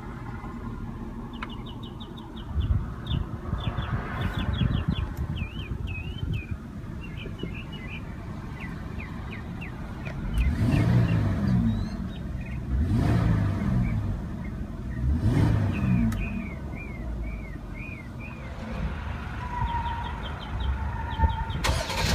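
Mercedes-Benz GLE 350's 3.5-litre V6 exhaust idling with a low rumble. It is revved three times about halfway through, each rev rising and falling back to idle. Birds chirp faintly in the background.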